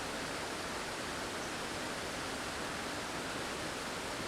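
Steady rushing of a double waterfall, falling water with no change or break.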